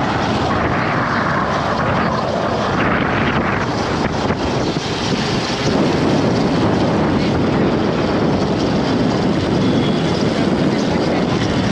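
Steady rush of road and wind noise from a moving vehicle, with wind buffeting the microphone.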